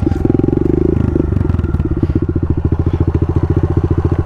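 Kawasaki KLX110 pit bike's single-cylinder four-stroke engine running, a little higher and fuller for the first second, then settling into a steady idle with even, rapid firing pulses.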